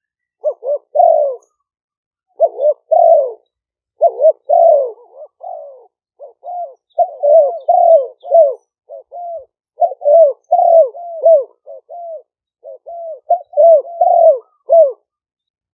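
Spotted doves cooing: short arched coos in quick groups, one phrase after another, with the background noise cut away so the gaps between phrases are silent.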